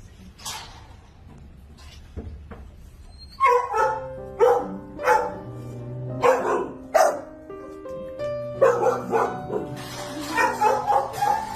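Shelter dogs barking repeatedly, a run of loud barks starting about three and a half seconds in, over background music with held notes.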